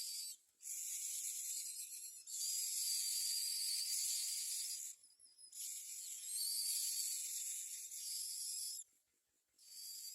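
Nestling mynas giving raspy, hissing begging calls in bursts of one to three seconds, several times over, with short gaps between them.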